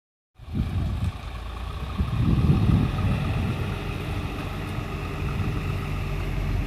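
Fire truck engine running steadily, a low drone with a faint steady whine higher up.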